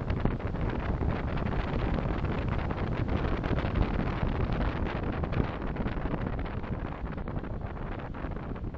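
Road and engine noise of a moving car picked up by a dashcam microphone: a steady low rumble that swells in the middle and eases off near the end.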